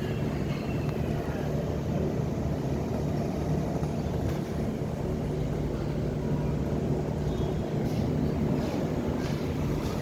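An engine running steadily with a low hum and no change in speed.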